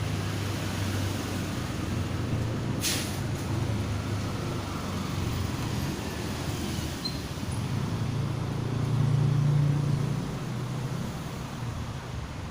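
A motor vehicle's engine hum, steady and low, swelling about nine seconds in and then easing off. A brief hiss sounds near three seconds in.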